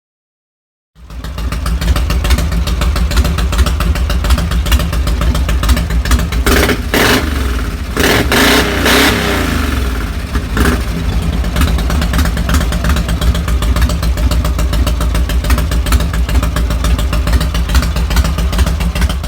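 1952 Harley-Davidson 74-cubic-inch panhead V-twin running through Bates megaphone mufflers: it idles, is revved several times about halfway through, then settles back to idle. The sound starts a second in and cuts off suddenly near the end.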